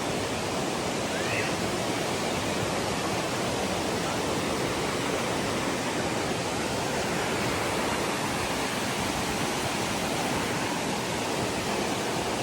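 Waterfall rushing in a steady, even roar of falling water, with a faint short chirp about a second in.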